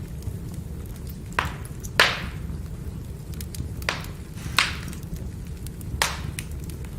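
Firewood burning: a steady low rumble of flames under sharp crackling pops, about five loud ones among many small ticks, the loudest about two seconds in.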